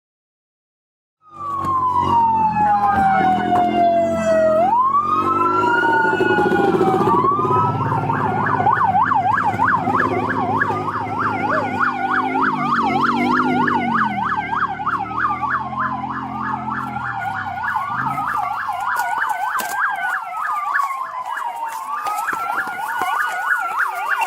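Police car sirens sounding after a second of silence: slow rising and falling wails, with a second siren switching to a rapid yelp about seven seconds in and both running on together. A vehicle engine drones underneath until near the end.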